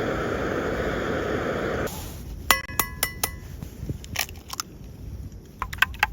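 Kitchenware clinking: a steady hiss that cuts off about two seconds in, then several ringing strikes of a utensil against a bowl, turning into quick repeated tapping near the end.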